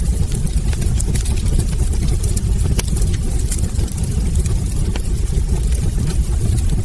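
Wood fire burning in a fireplace: a steady low rumble of the flames with frequent small, irregular crackles and pops from the logs.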